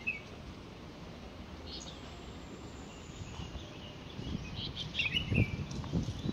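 Birds chirping in short, scattered calls over a steady background hiss, with a few soft low thumps in the second half.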